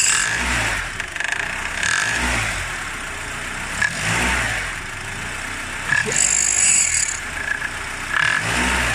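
Honda K24 2.4-litre four-cylinder engine loaded in gear against the handbrake, the throttle pressed several times so that it swells and falls back in repeated surges. The knock heard under this load comes from the accessory belt tensioner, which the owner blames on a worn, slightly short non-original belt.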